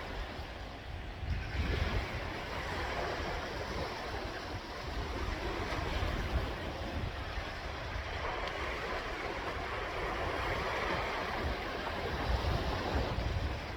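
Sea waves breaking and washing on the shore, a continuous surf wash that swells and eases, with wind buffeting the microphone.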